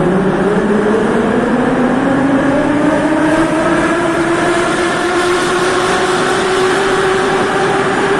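Moscow metro train accelerating along the platform: its traction motors give a whine of several tones that climb steadily in pitch, over a steady rumble of wheels on rail.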